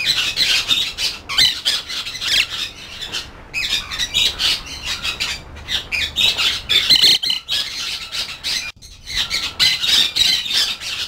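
A crowd of caged birds squawking, many harsh calls overlapping with hardly a pause.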